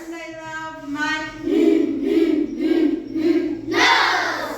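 A group of children chanting a phonics letter-sound rhyme in unison, in short rhythmic syllables about twice a second, with a loud breathy burst of voices about four seconds in.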